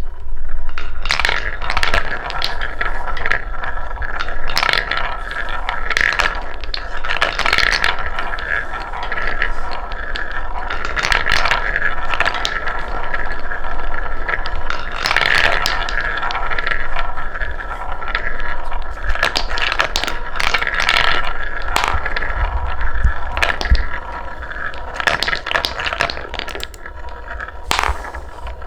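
Wooden balls rolling down a wooden marble-run track: a continuous rolling rattle with many sharp clacks and knocks as the balls drop and strike the wood, a little quieter near the end.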